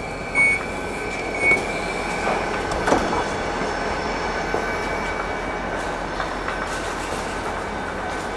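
Copenhagen S-train running on the rails, heard from inside the carriage: a steady rumble under a high wheel squeal and a steady whine, with a few knocks over the rail joints in the first three seconds.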